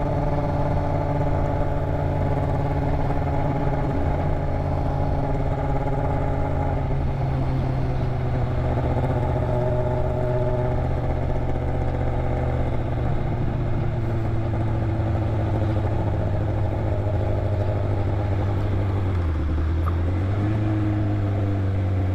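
Motorcycle engine running steadily while riding, with its exhaust muffler missing. The rider says it sounded weird without it. Its pitch sags gently midway, drops near the end, then picks up again.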